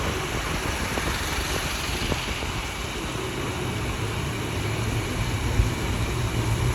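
Car being driven, with steady engine and road noise; the low engine hum grows stronger in the second half, and there is a brief thump about five and a half seconds in.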